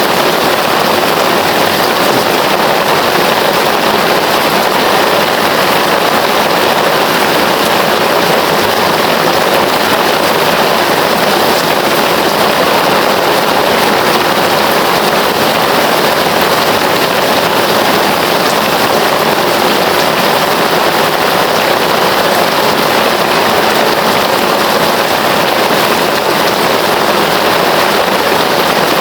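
Heavy rain falling in a steady, dense downpour, with no breaks or thunder.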